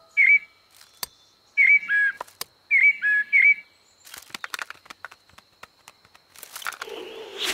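Cartoon blackbird chirping: three short whistled phrases of two or three notes each. These are followed by a patter of light clicks and flutters as it flits off the nest. Near the end a noisy whoosh with a low hum comes in.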